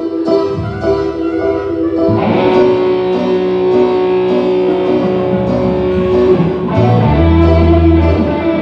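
A live band playing through a PA system: electric guitar over a bass line, with sustained notes and the bass swelling near the end.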